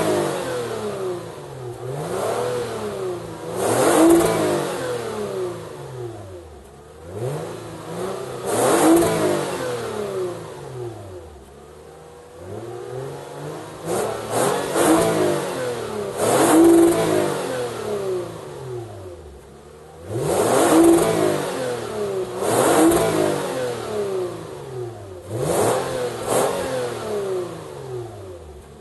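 2013 Lexus IS250's 2.5-litre V6 engine and exhaust being revved repeatedly: about ten quick throttle blips, each rising in pitch and falling back toward idle.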